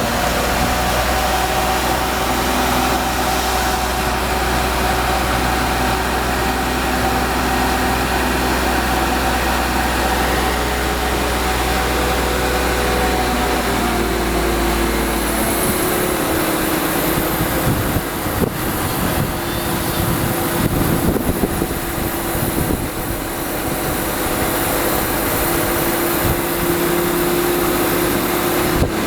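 Tadano truck crane's diesel engine running steadily. About halfway through the deep low note drops out and the engine settles onto a different steady tone, with a faint high whine above it.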